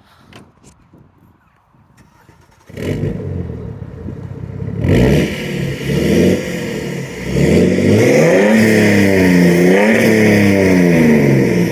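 BMW 530d's straight-six turbodiesel, straight-piped from the turbo with no silencing, starts up suddenly about three seconds in, runs briefly and is then revved several times, its pitch rising and falling with each blip.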